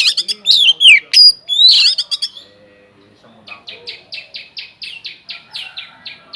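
Oriental magpie-robin (kacer) singing loud, varied whistled phrases with quick rising and falling glides. After a short pause it gives a quieter rapid run of repeated short notes, about four or five a second.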